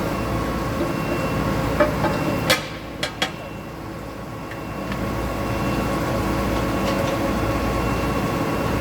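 NZA gear grinding machine running with a steady hum, with several sharp metal clicks and knocks about two to three seconds in. The hum drops right after the knocks and builds back up about five seconds in.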